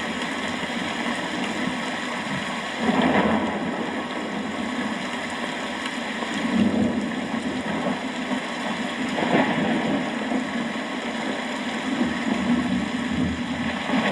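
Steady rain falling, with rumbles of thunder swelling up several times, the first one sudden about three seconds in.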